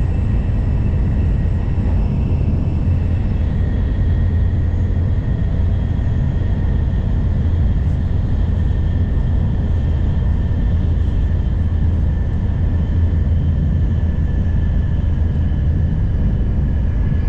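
Inside an N700 series Shinkansen car running at speed: a steady, loud low rumble, with a faint whine that slowly falls in pitch.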